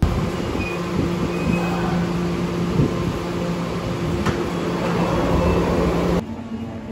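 Train pulling into the platform and coming to a stop: a loud, steady rumble with a constant hum and a few short high squeals. It cuts off suddenly about six seconds in, leaving quieter platform noise.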